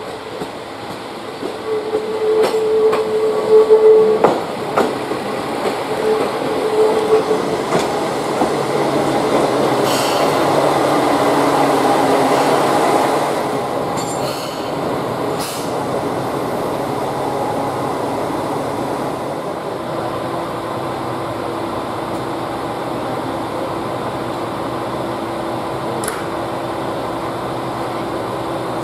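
Heisei Chikuho Railway Kotokoto Train diesel railcar pulling slowly into a station platform. A steady squeal comes about three seconds in and again around six, the engine grows louder as the train passes, with a few sharp clicks, and then it idles steadily once stopped.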